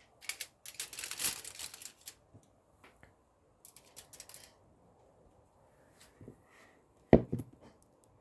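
Crinkling and rustling as a wrapper or foil is handled, in two spells, the first about two seconds long and the second about a second. A sharp knock comes near the end.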